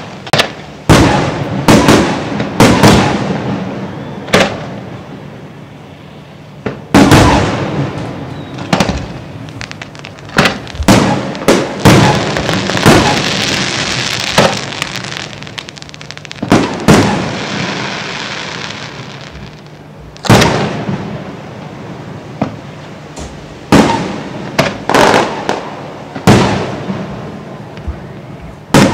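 Fireworks display: aerial shells bursting with loud booms, some spaced out and some in quick clusters, with crackling and hissing from the bursts in between.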